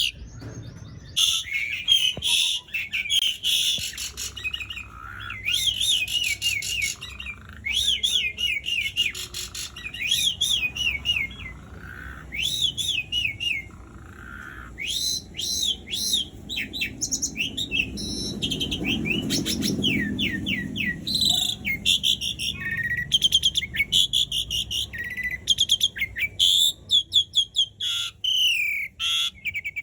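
Asian pied starling (jalak suren) singing a long, varied song of rapid chirps, whistles and trills, in quick repeated phrases with short pauses between them.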